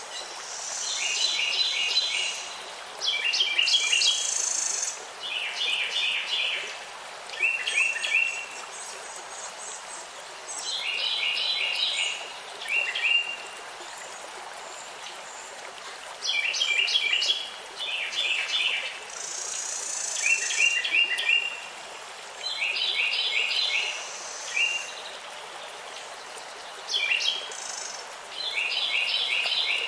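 Songbirds singing, each phrase a quick cluster of high chirps, repeated every second or two over a steady background hiss.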